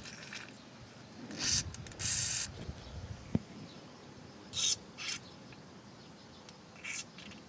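Aerosol can of foam-type carburetor cleaner sprayed in about five short hissing bursts, the longest about two seconds in, with one light knock between them; the foam is being applied to dissolve deposits in a small engine's carburetor.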